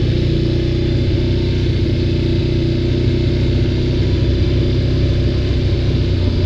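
ATV engine running steadily at an even speed, its pitch neither rising nor falling.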